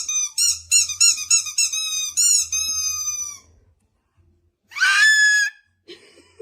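Rubber squeaky toy being squeezed over and over, about four short squeaks a second with a longer one to finish. After a short pause comes one louder, longer squeak.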